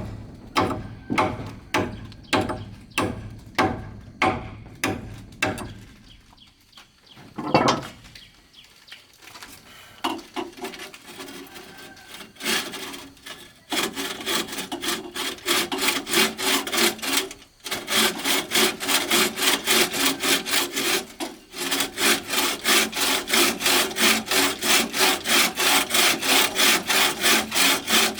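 Hand saw cutting wood in steady back-and-forth strokes, under two a second at first. After a single louder knock and a short pause about a third of the way in, the sawing resumes faster, at about three strokes a second.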